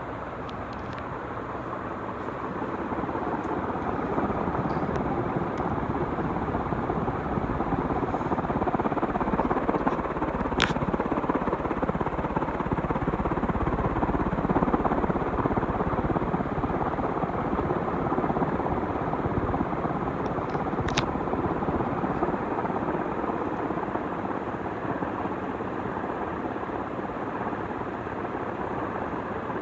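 A 56-inch industrial ceiling fan with a cast iron motor and steel blades running, a steady rush of moving air that grows louder over the first several seconds as the fan comes up to speed, then holds. Two brief ticks, about ten seconds apart.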